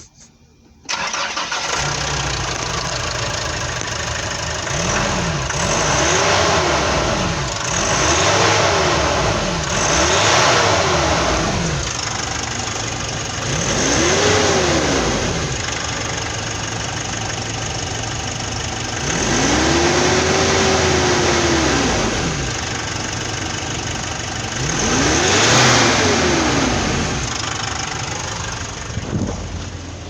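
Nissan YD25DDTi 2.5-litre four-cylinder turbo-diesel starting about a second in, then idling and being revved about seven times, rising and falling in pitch, one rev held longer near the middle.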